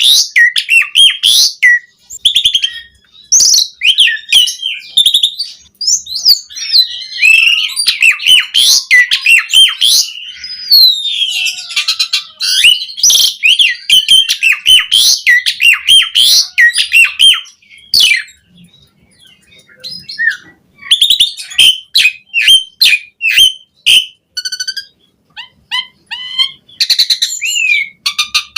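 Asian pied starling singing a long, varied song of rapid chattering, sharp squeaky notes and whistled glides, with a lull about two-thirds of the way through before it resumes in short bursts.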